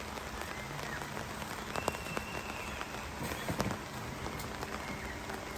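Steady rain falling, with many separate drops ticking and pattering.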